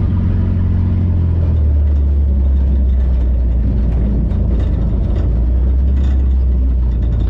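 Four-cylinder rear-wheel-drive ice race car's engine running at low, steady revs, heard from inside the stripped cabin; the engine note steps down about one and a half seconds in.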